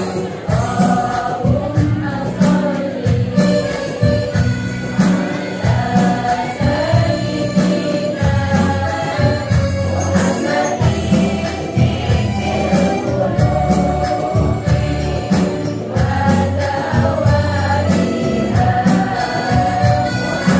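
Women's choir singing in unison to instrumental accompaniment with a steady beat.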